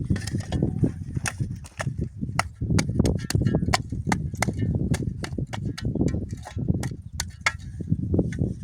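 Rapid, irregular sharp snaps and knocks, several a second, over dull low thuds and rustling: the sound of hand work.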